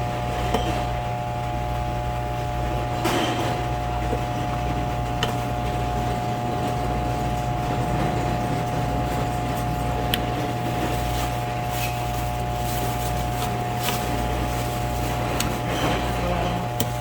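Steady machine hum with scattered sharp taps and knocks of a knife on a cutting board as fish is filleted.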